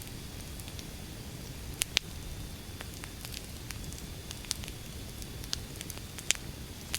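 Wood fire burning: a steady low rumble with irregular sharp crackles and pops, the loudest about two seconds in and again near the end.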